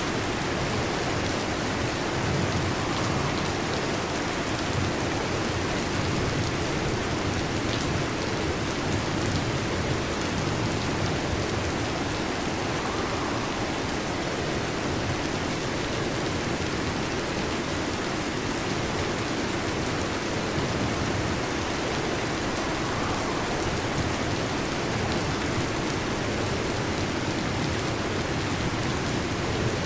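Heavy rain drumming steadily on a metal roof, an even unbroken patter.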